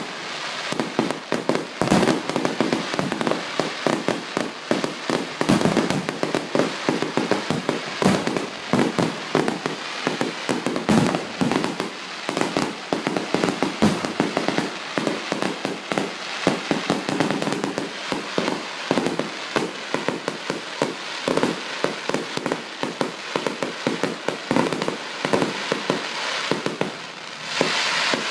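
Fireworks display: a dense, continuous barrage of bangs and crackles, with a brief lull near the end.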